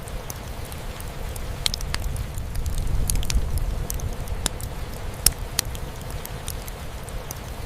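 Wood fire crackling, with sharp irregular pops over a steady low rumble of rain drumming on a roof.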